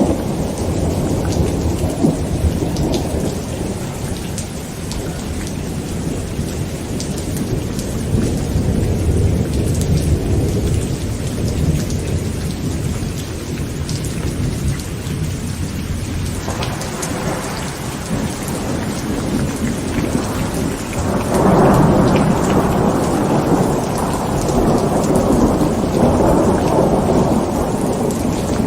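Heavy rain falling on a tent with continuous rolling thunder. The thunder swells into a louder, sharper rumble about three-quarters of the way through.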